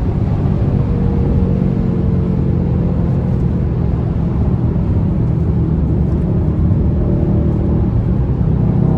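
Mercedes-AMG C63 S twin-turbo V8 running steadily at speed, a low engine drone whose pitch barely changes.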